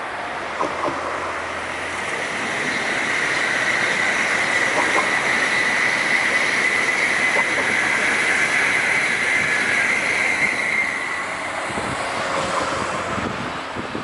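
A train passing by on the line: the rush of wheels on rail builds, holds with a steady high whine through its loudest stretch, and fades away near the end.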